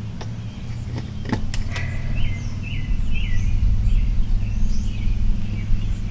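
A few sharp clicks in the first two seconds, then a bird chirping over and over in short falling calls, over a steady low rumble.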